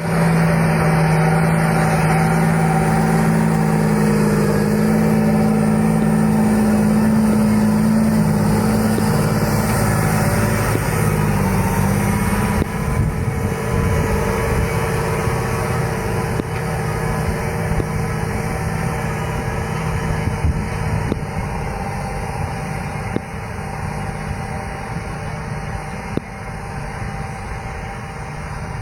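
John Deere tractor's diesel engine running steadily under the load of pulling a subsoiler, growing gradually quieter over the second half.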